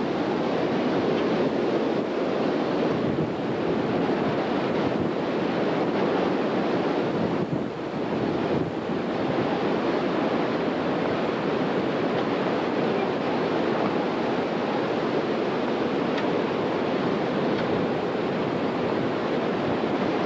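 Strong storm wind rushing steadily over the microphone, with a brief lull about seven or eight seconds in.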